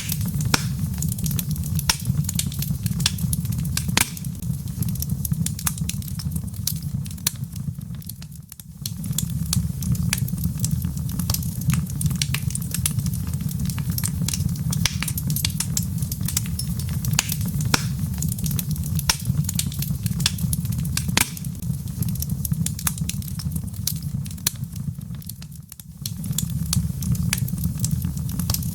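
Log fire crackling in a fireplace: a steady low rumble of flames with many sharp pops and snaps from the burning wood. The sound briefly drops away twice.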